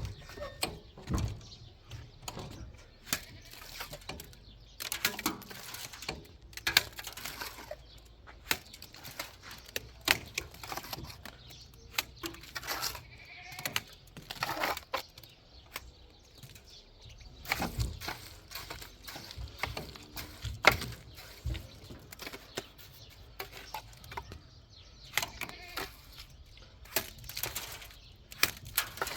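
Goats bleating now and then over scattered sharp knocks and clatter.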